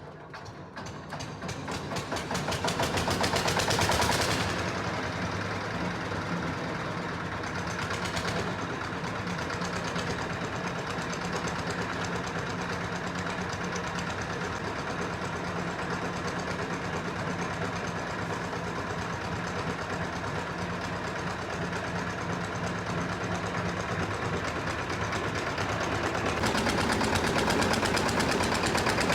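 Diesel engine of a portable mini rice mill running with a rapid, even knock. It picks up and grows louder over the first few seconds, then runs steadily, and a brighter hiss joins near the end.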